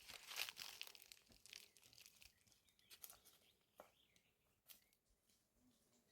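Faint rustling and crinkling with scattered small clicks, busiest in the first second, then a few isolated ticks.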